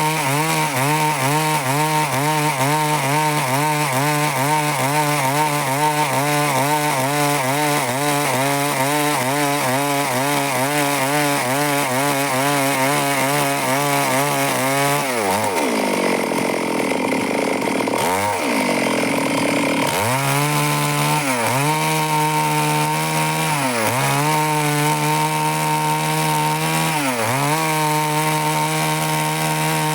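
Stihl two-stroke chainsaw cutting wood at high revs. About halfway through the engine speed falls away for several seconds, then it runs back up and keeps dipping briefly every couple of seconds.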